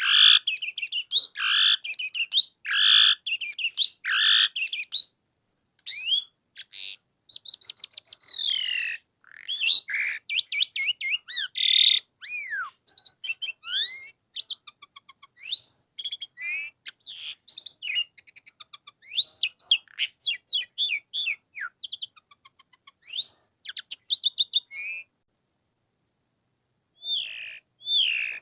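Javan pied starling singing a long, varied song of whistles, gliding notes, harsh chattering calls and rapid trills. There is a short break about five seconds in and a longer one near the end.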